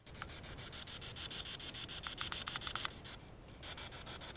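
Spirit box sweeping through radio channels: a steady static hiss chopped by rapid, evenly spaced clicks as it jumps from station to station. It starts suddenly.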